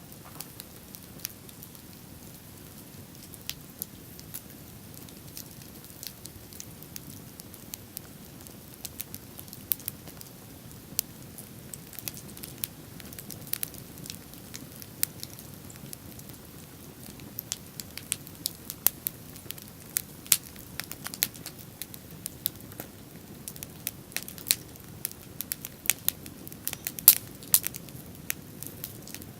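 Wood bonfire burning and crackling, with sharp pops that come more often and louder toward the end, over a low steady rush.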